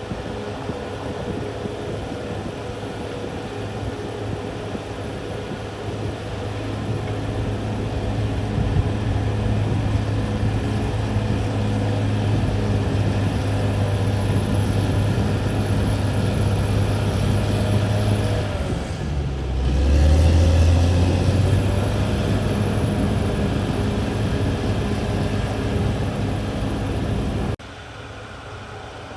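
CAT D6R XL bulldozer's diesel engine running steadily. About two-thirds of the way through, its pitch sags lower for a couple of seconds and then picks back up. Near the end the sound drops suddenly to a quieter level.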